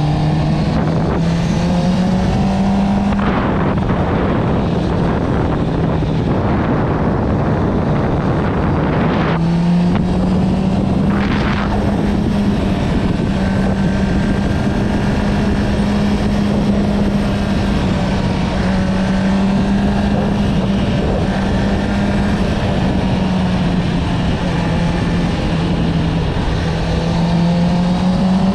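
Honda CB650R's inline-four engine with an Akrapovič exhaust, heard while riding: the engine note climbs in the first few seconds, drops briefly about nine seconds in and climbs again, then holds steady, over constant wind noise.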